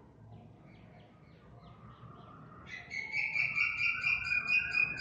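A bird calling: faint short chirps repeat for the first couple of seconds, then just under three seconds in a loud, rapid, pulsing chatter takes over for about two and a half seconds.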